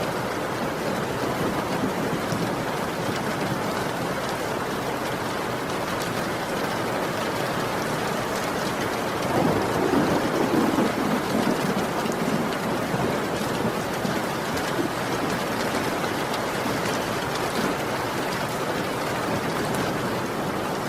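Heavy rain falling steadily, with a low rumble of thunder swelling up about halfway through and fading over a couple of seconds.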